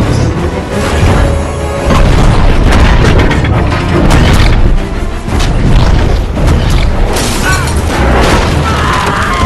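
Cannon fire booming over a loud orchestral score, with crashing impacts.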